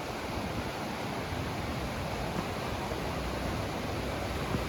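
Steady rushing of a river's water pouring over rocks at a small waterfall and rapids.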